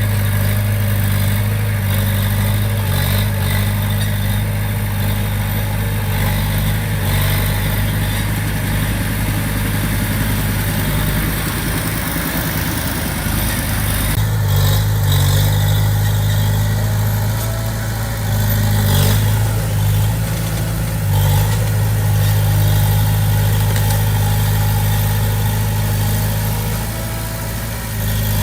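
Diesel engine of a small Komatsu D20P crawler bulldozer running steadily at a constant speed, with small shifts in its note as the load changes.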